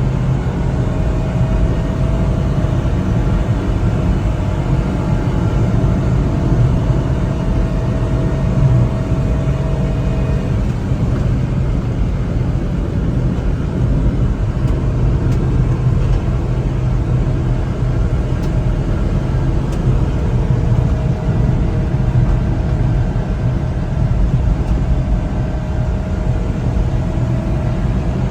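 1992 Honda Acty kei truck's 656 cc three-cylinder engine running under way, with steady low road rumble. A faint whine climbs slowly in pitch during the first ten seconds and again near the end.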